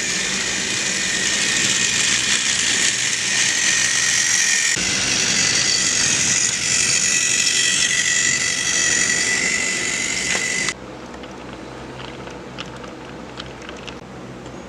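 Battery-powered Trackmaster toy train motor running with a steady high whine and gear hiss. It cuts off suddenly about eleven seconds in, leaving a quieter hiss with a few light clicks.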